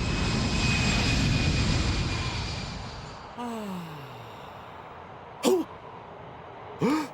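Airliner jet engine noise with a steady high whine, fading out over the first three seconds. Then a falling tone lasting about a second, and two short vocal exclamations near the end.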